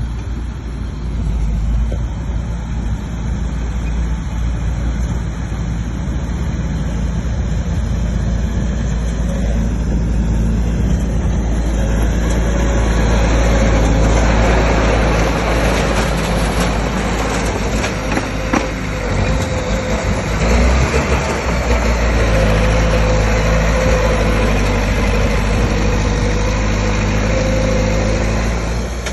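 Bulldozer's diesel engine running steadily, growing louder with a rising wash of noise from about twelve seconds in.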